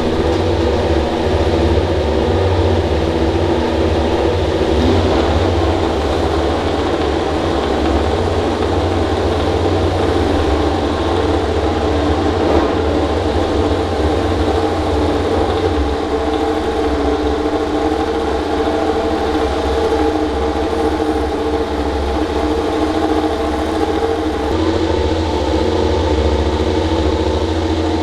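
Engine running steadily at idle, a constant loud drone with a strong low hum and no revving.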